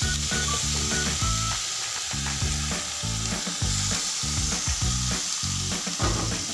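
Halved fruit sizzling and hissing as it is tipped from a glass bowl into a hot frying pan, with soft knocks and slides of the pieces against the pan.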